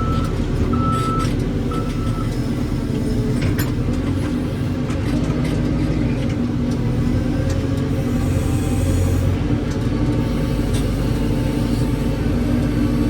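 Heavy diesel machinery running steadily under load, a continuous engine drone, with a backup alarm beeping three times in the first two seconds and a few scattered clanks.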